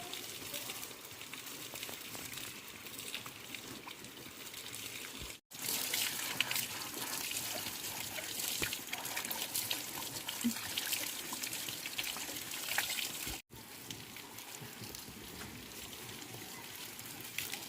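Water running and trickling, in three stretches broken by two abrupt cuts, the middle one louder.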